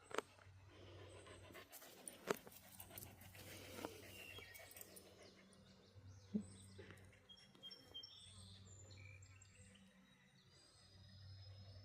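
A dog panting faintly to cool off in the summer heat, with a few scattered clicks and some short, faint high bird chirps in the second half.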